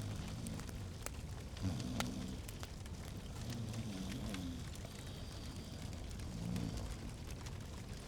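Log fire crackling in a fireplace, with scattered sharp pops over a low steady rumble.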